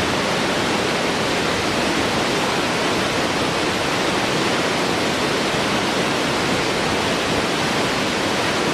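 Steady rushing water, an even unbroken roar with no changes in level.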